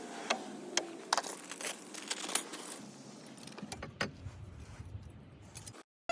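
Metal tools and brake parts clinking and clicking as they are handled during a front brake job, a string of sharp clicks. A low rumble comes in past the halfway point and cuts off shortly before the end.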